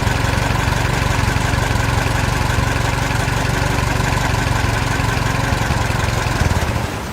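An engine or motor running steadily at an even idle, a fast regular rumble with a steady hum over it, starting suddenly and fading away near the end.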